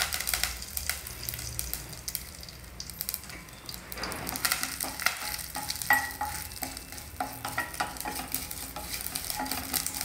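Curry leaves, mustard seeds and urad dal sizzling and crackling in hot coconut oil in a stainless steel pressure cooker. From about four seconds in, a wooden spoon stirs them, with many small strokes.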